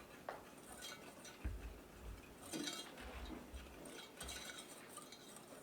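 Faint scraping and light clinking of a utensil stirring dry cornstarch, flour and sugar together in a bowl, with a few soft low bumps of the bowl being handled.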